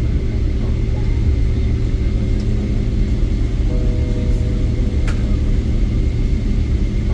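Steady low rumble inside the cabin of a Boeing 777-300ER on the ground after landing, from the engines and the airframe, with a faint steady hum. There is a single sharp click about five seconds in.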